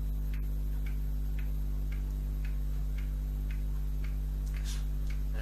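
Faint, evenly spaced ticking, about two ticks a second, over a steady low electrical hum.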